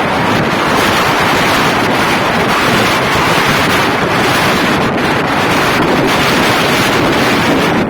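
Loud, steady wind buffeting the microphone on a moving motorbike.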